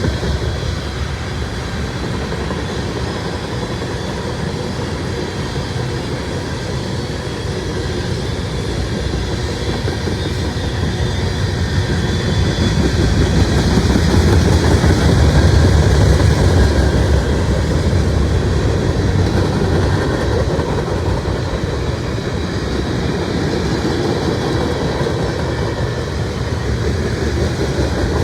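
Freight train cars rolling past, their wheels clattering steadily over the rails, growing a little louder midway before easing back.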